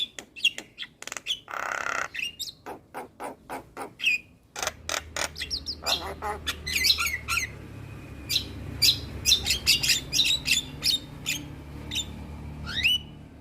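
Javan myna singing a varied, fast song of sharp clicks, chirps and short whistles, with a harsh rasping call about a second and a half in. From about four and a half seconds a steady low hum runs beneath it.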